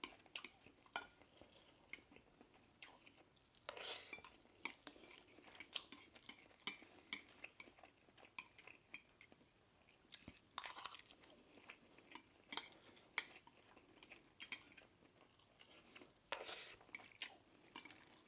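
Faint close-miked eating of stir-fried instant noodles: soft chewing with many small clicks of a spoon on the dish, and a few longer scooping or mouth noises about four, ten and a half and sixteen and a half seconds in.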